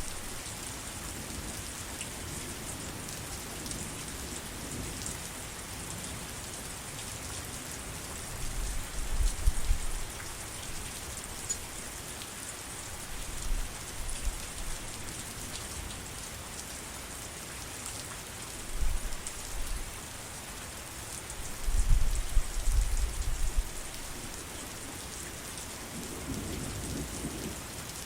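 Steady rain falling, a dense even hiss of drops. Several brief low rumbles of thunder rise through it, the strongest about two-thirds of the way in.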